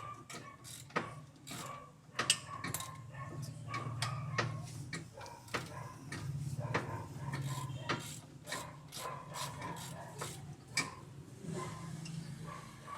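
Hand ratchet wrench clicking in irregular runs as a bolt on the suspension is turned, with a low hum rising and falling underneath.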